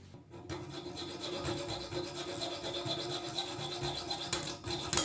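Hacksaw sawing back and forth through a stainless steel bolt, a continuous rasp, with a few sharp clicks near the end. The blade is worn down and nearly out of teeth.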